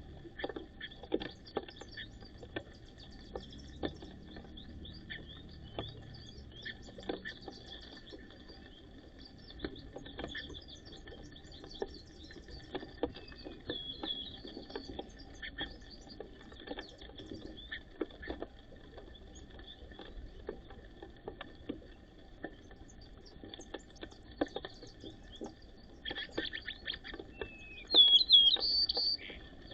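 White-crowned sparrows giving short chirps over scattered light clicks, with a louder run of quick, sliding chirps near the end.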